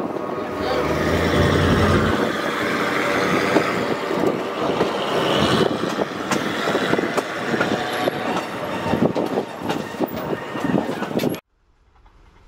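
Running noise of a Durango & Silverton narrow-gauge train, heard from its rear platform: a steady, dense rumble and clatter of the car rolling on the track. It cuts off suddenly near the end.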